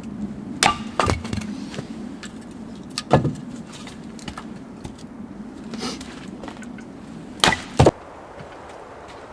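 Dry firewood cracking and splitting: a handful of sharp cracks at uneven intervals, the loudest two close together near the end.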